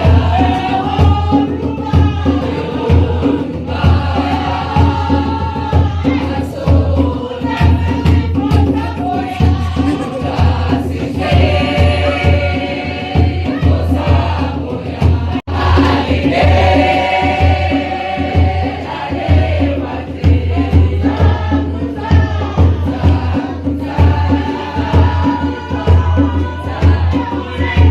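Choir and congregation singing a gospel song in several voices over a steady bass line and a regular beat.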